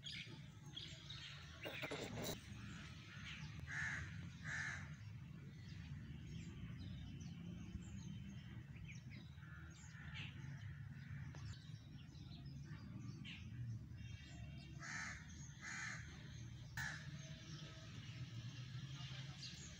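Birds calling: several short, harsh cawing calls, a pair about four seconds in and three in a row near the end, with scattered small chirps over a steady low rumble.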